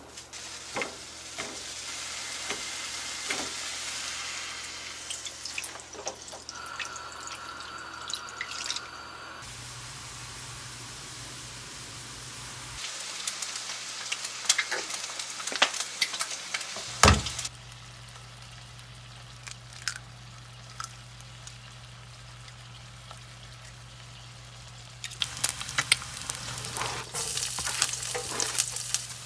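Kitchen cooking sounds: food sizzling in a pan, with sharp clicks and clinks of utensils. The sound changes abruptly a few times, quieter for a stretch in the middle and busier again near the end.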